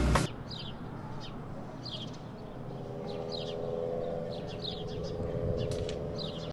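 A bird chirping, short high chirps that fall in pitch, repeated every second or so over faint outdoor ambience with a steady low hum coming in about halfway. A louder sound cuts off sharply just after the start.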